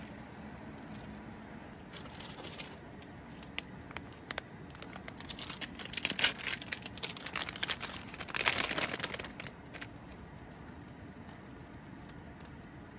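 Crinkling and rustling of something crinkly being handled, in dense bursts from about two seconds in to about ten seconds in. It is loudest around the middle and again a little later.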